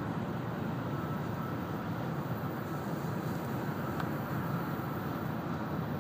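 Steady running noise inside the cabin of an N700-series Shinkansen cruising at speed: an even rush and rumble of wheels and air, with a faint thin whine above it.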